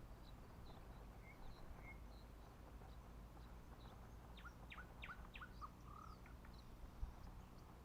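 Faint birdsong: scattered short high chirps from several small birds, with a run of about six quick notes, each sweeping downward, around the middle. A steady low rumble lies beneath.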